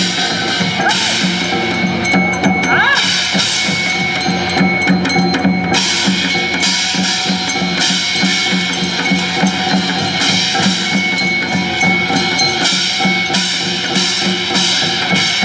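Live ensemble music from a Korean traditional (gugak) fusion group: driving drums and percussion under sustained melodic lines, with a brief upward pitch slide about three seconds in.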